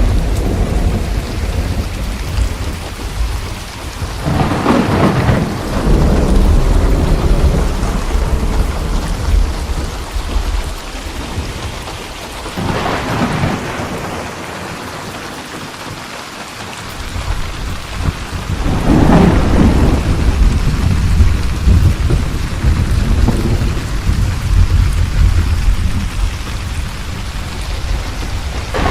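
Steady rain falling with rolling thunder: a low rumble throughout, swelling louder three times, with a brief lull in the rumble about halfway.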